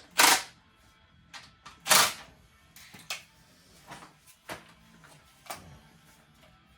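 Clicks and knocks of parts and tools being handled during chainsaw repair, with two louder knocks, one just after the start and one about two seconds in.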